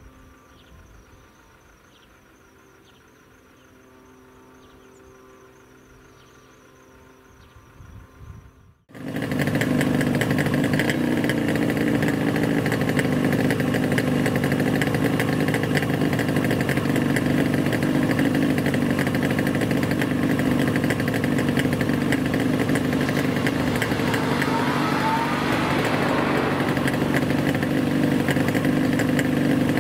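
An engine running steadily and loudly, cutting in abruptly about nine seconds in after a quiet stretch with faint steady tones.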